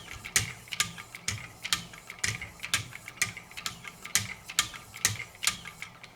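3000-grit stones of a Wicked Edge guided sharpening system stroking along a knife blade: quick, light scraping strokes about three a second, the fine-grit stage of sharpening.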